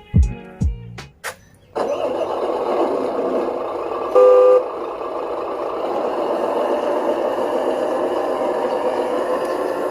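Radio-controlled Huina 1573 dump truck's electric motor and gearbox running steadily, with one short electronic beep about four seconds in. The last hits of background music end in the first second.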